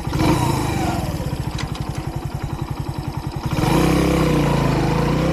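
Kreidler Dice CR 125's single-cylinder four-stroke engine idling with an even, rapid putter just after being started, then revving up and getting louder about three and a half seconds in.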